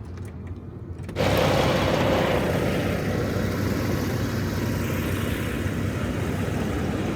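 Steady running noise of an idling semi-truck's diesel engine, cutting in suddenly about a second in.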